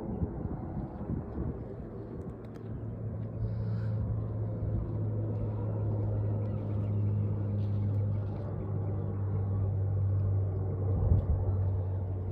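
A steady low engine hum that sets in a few seconds in and holds until near the end, over rumbling outdoor background noise.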